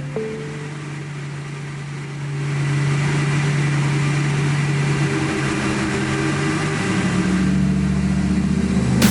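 Twin-turbo Lamborghini Gallardo's V10 engine running at a steady speed, getting louder about two seconds in and changing pitch near the end.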